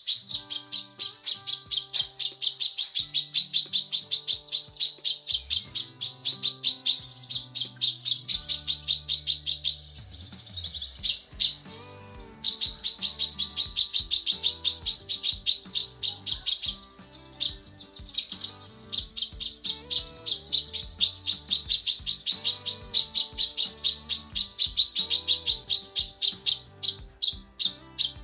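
Female cucak kinoi calling in long runs of rapid high chirps, several a second, with short pauses between runs. A music track plays quietly underneath.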